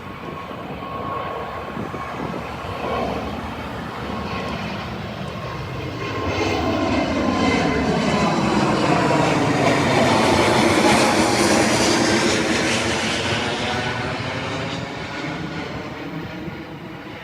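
Jet airliner engines passing close by, with a thin steady whine at first, then swelling to their loudest about ten to twelve seconds in with a sweeping, shifting rush before fading away.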